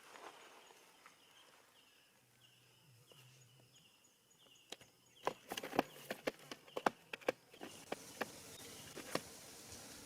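An irregular run of sharp knocks and clicks, about a dozen in four seconds, starting about halfway through. Under them and before them is a faint short chirp repeated about twice a second.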